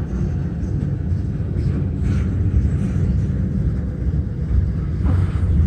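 Intermodal freight train's cars rolling slowly past at about 8 miles an hour, a steady low rumble with a few faint rattles.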